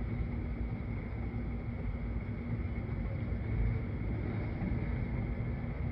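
Diesel switching locomotive running as it works cars in the yard: a steady low rumble with no distinct knocks or horn.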